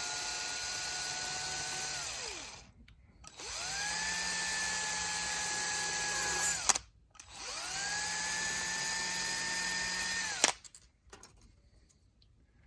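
Small power drill running in three short bursts, whining up to speed and winding down each time, as a drill bit opens out a hole in styrene plastic. It stops with a sharp click near the end, followed by a few faint handling clicks.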